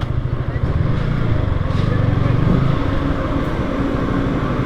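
Yamaha R15 V3's single-cylinder engine running at low riding speed, a low, pulsing engine note.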